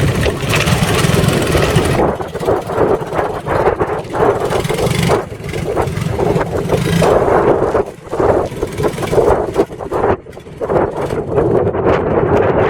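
An engine running with its revs rising and falling unevenly, dropping off briefly twice in the second half, with wind blowing on the microphone.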